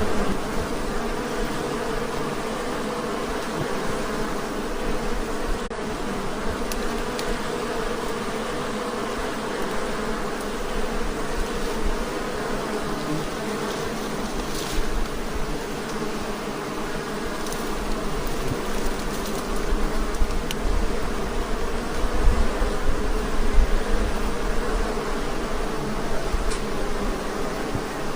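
A mass of honey bees from a very aggressive hive buzzing in a dense, steady hum. A low, uneven rumble underneath swells about three quarters of the way through.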